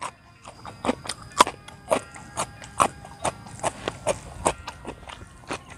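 Close, crunchy chewing of raw food, steady at about two crunches a second, picked up by a clip-on lapel microphone.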